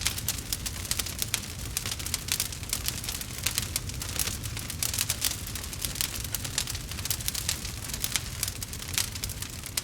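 Wood fire crackling: dense, irregular pops and snaps over a low steady rumble of the flames.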